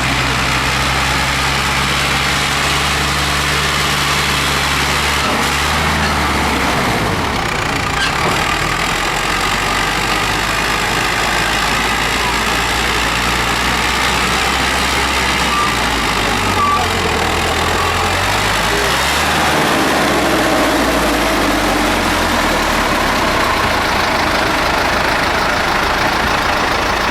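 Tractor engines running at idle, with a steady low drone. One engine's tone changes about a quarter of the way in, and past the middle an engine's speed rises and falls once.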